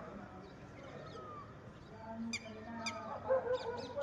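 Birds calling: a series of short, arched honk-like calls, with two sharp clicks a little past halfway and a busier flurry of calls near the end.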